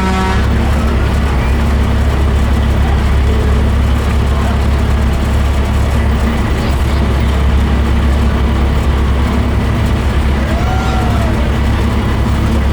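A heavy truck's engine running steadily, a constant low drone with road and wind noise over it.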